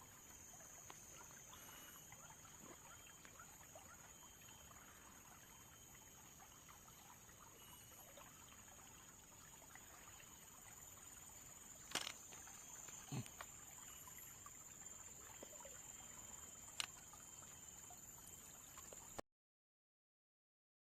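Near silence: a faint steady hiss with a thin high tone and a few soft clicks, cutting to dead silence about two seconds before the end.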